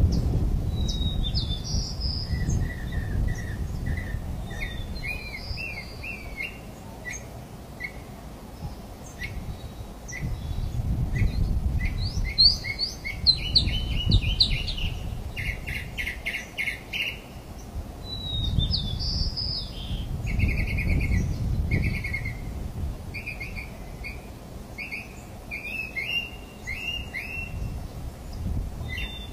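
Wild birds chirping and calling in short repeated notes and trills, over a low rumble that swells twice and fades.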